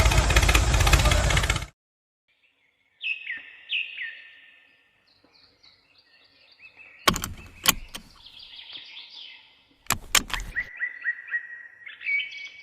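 A loud machine noise cuts off abruptly at the start, and after a moment of silence birds chirp: short falling calls, then a quick run of repeated notes, with a few sharp clicks in between.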